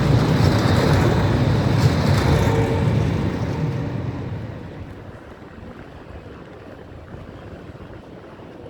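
A tram passing with a loud low rumble that fades away over about a second, some four seconds in, leaving quieter street background.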